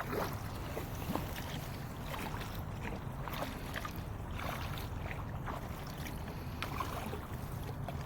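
Water lapping and splashing lightly against a kayak at sea, in small irregular splashes over a steady low wind rumble on the microphone.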